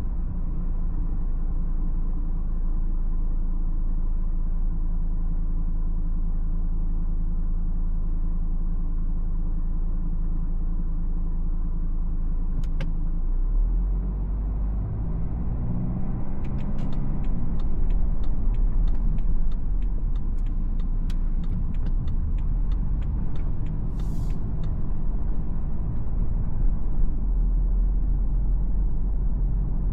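A BMW X4 xDrive20d's 2.0-litre four-cylinder diesel and tyre rumble as the car drives through city traffic: a steady low drone whose pitch rises briefly about halfway. A run of regular ticks lasts several seconds in the middle, and a short hiss comes near the end.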